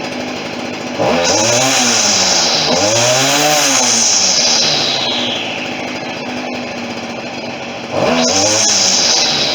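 Stihl FS40C string trimmer's small two-stroke engine idling, then blipped to high revs twice as its carburettor is tuned. On the first rev the pitch climbs, sags for a moment, then picks up again before dropping back to idle. The owner says the throttle response still has a slight bog.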